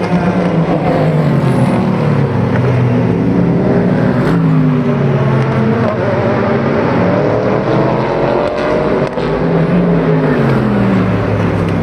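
Racing car engines braking into a corner, their exhaust notes falling in steps as they downshift and then rising again as they accelerate away. Several cars go through one after another.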